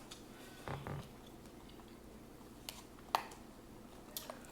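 Quiet chewing and mouth sounds of someone eating, with a few sharp clicks, the loudest about three seconds in.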